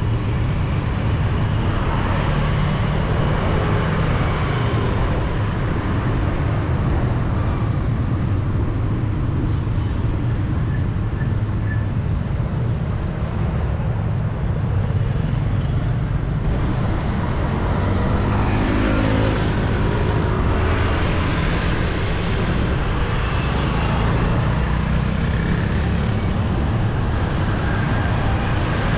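Steady city street traffic heard from a bicycle: a constant rumble of passing engines and tyres, with a vehicle's engine rising in pitch as it goes by about two-thirds of the way through and again near the end.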